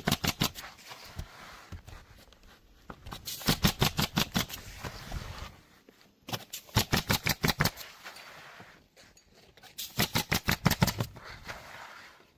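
Bursts of rapid, sharp knocking, about ten strikes a second, each lasting a second or two and coming back roughly every three seconds.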